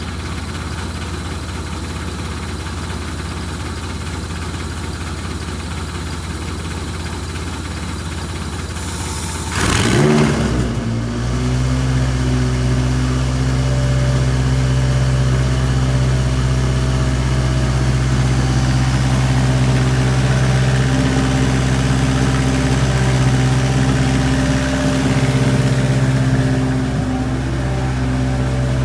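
A Toyota 2AZ 2.4-litre inline-four on a test stand, heard under a steady low hum. About ten seconds in it is briefly cranked and catches. It then runs at a steady idle: the first start of a used contract engine being checked.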